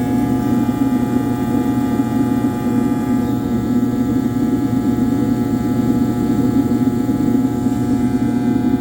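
Steady mechanical drone of a motor running at constant speed: a low rumble with several steady tones above it, unchanging throughout.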